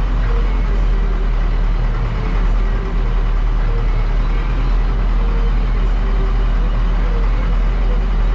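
Diesel engine of farm harvest machinery running steadily under a constant drone, with no change in speed.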